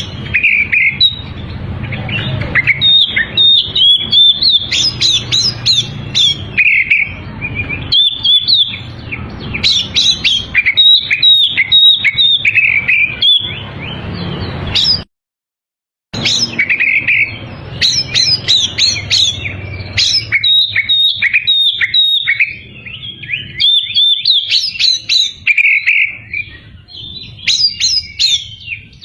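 Oriental magpie-robin (kacer) singing vigorously: a fast, unbroken run of varied whistles, trills and rapid chattering notes. The song cuts out to silence for about a second midway, then carries on.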